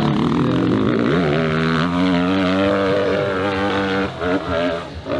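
Dirt bike engine running at high revs on a steep hill climb, held fairly steady for a few seconds, then the revs break up and drop in and out about four seconds in.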